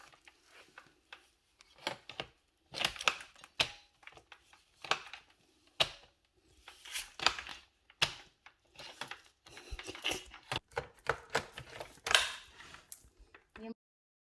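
Plastic vacuum-cleaner parts and packaging being handled: irregular clicks, knocks and rustling that stop abruptly near the end.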